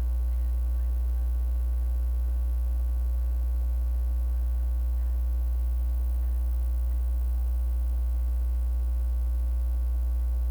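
Steady electrical mains hum on the audio feed: a loud, unchanging low buzz with a ladder of overtones above it, a fault in the livestream's sound.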